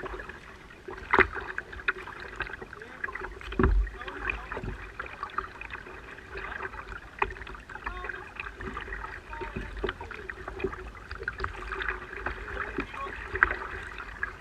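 Sounds of a fishing kayak on the water: many small knocks and clicks against the hull, with two heavier thumps in the first four seconds.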